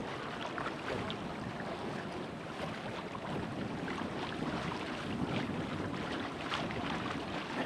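Steady wind noise on the microphone and water rushing past the hull of a sailboat under way.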